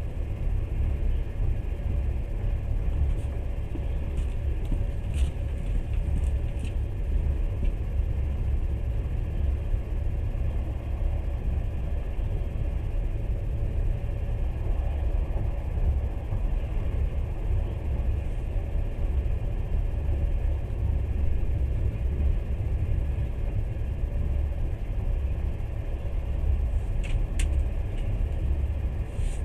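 Steady low rumble of a moving passenger train, heard from inside the carriage, with a faint steady hum running under it. A few light clicks or rattles come a few seconds in and again near the end.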